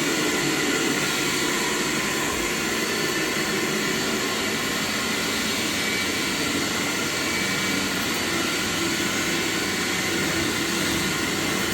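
A machine running steadily: a continuous whirring hum with several steady tones, no change in pitch or loudness.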